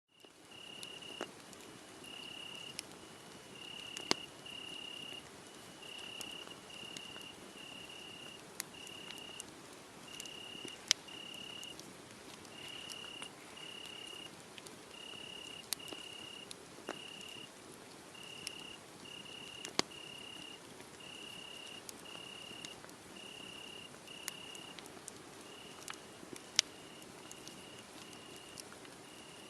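Crickets chirping in a series of short, high chirps, about one or two a second, over a wood fire crackling with scattered sharp pops that are the loudest sounds.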